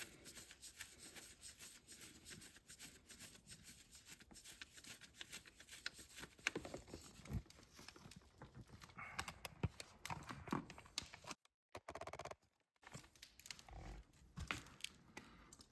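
Faint clicking and scraping of a hand wrench on a motorcycle's oil drain bolt as the bolt is unscrewed, with a few sharper ticks of metal on metal partway through.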